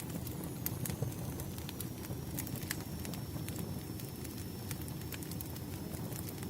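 Firewood fire burning with a steady low rumble and irregular sharp crackles and pops, several a second. A faint, thin, high whistle sounds through most of it.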